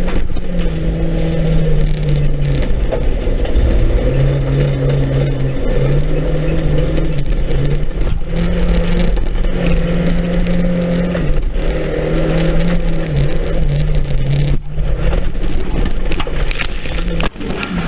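Banger race car's engine, heard from inside the stripped-out cabin, running hard with its pitch rising and falling again and again as the driver accelerates and lifts around the dirt track. Short knocks and rattles come through throughout.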